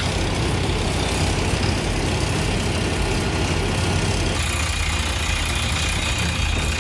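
Diesel engine of a heavy earthmoving machine running steadily, with the sound changing abruptly about four seconds in.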